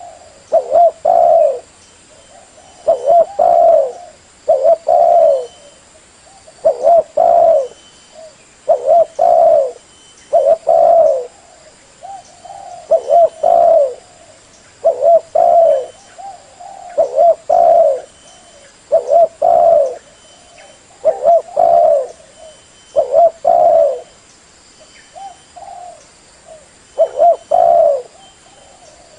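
Spotted dove cooing, a decoy bird's call used to lure wild spotted doves. Short phrases of two or three low coos repeat about every two seconds, with brief pauses between.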